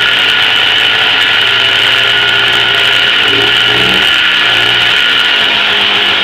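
1987 Polaris Trail Boss 250's two-stroke single-cylinder engine running while it warms up from a cold start, its speed rising and falling around the middle.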